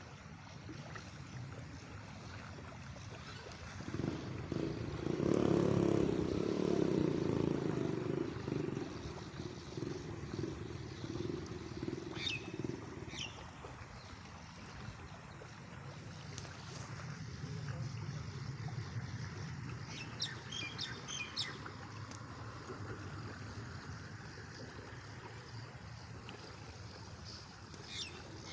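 Outdoor ambience with scattered short bird chirps, several quick calls near the middle and again near the end. The loudest sound is a motor vehicle's engine passing early in the stretch, a low hum that swells and fades over about five seconds.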